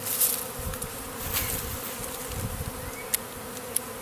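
Honeybee swarm humming steadily at close range, with a few brief rustles and two sharp clicks in the second half.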